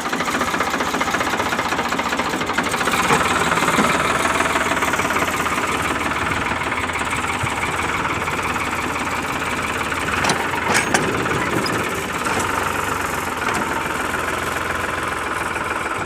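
Diesel engine of a Farmtrac 45 tractor running steadily, with a few sharp clicks about two-thirds of the way through.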